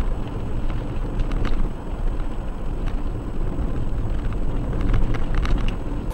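Vehicle on the move: steady low rumble of engine and road noise, with a few light clicks or rattles.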